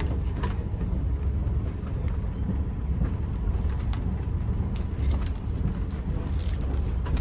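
Train running, a steady low rumble heard from inside the coach, with a few faint crinkles and taps of aluminium foil food containers being unwrapped.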